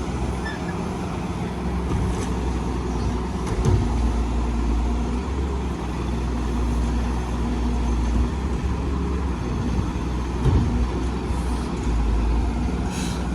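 Heavy diesel construction machinery running steadily with a low drone, with two short knocks, one about a quarter of the way in and one about three-quarters through.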